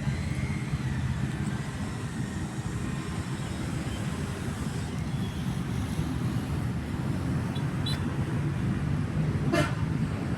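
Steady low mechanical rumble, with a short high chirp near the end.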